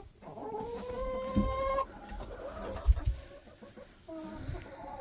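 Roosting backyard chickens making soft, drawn-out calls: one long, slightly rising call lasting almost two seconds, then a fainter one near the end, with a few low thumps in between.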